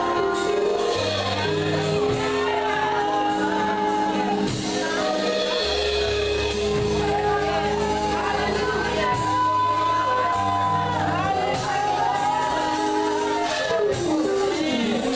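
Live gospel worship music in a large hall: a band with held keyboard chords, bass and drums, with voices singing and occasional shouts from the congregation.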